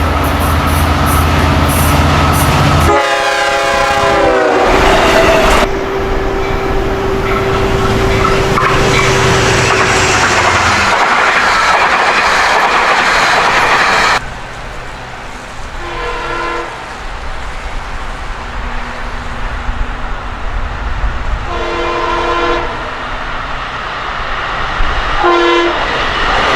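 A Long Island Rail Road diesel locomotive-hauled train passes close by. The engine is running, and the horn blows as the locomotive goes by, its pitch dropping. The coaches then rattle and clatter over the rails. After about fourteen seconds it turns quieter, and a train horn sounds three more times from farther away, each blast about a second long.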